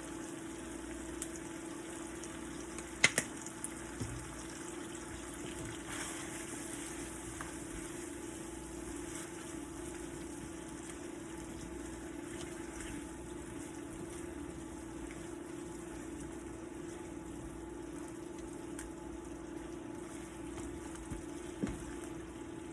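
Steady low hum with an even watery hiss, broken by a few sharp clicks, the loudest about three seconds in.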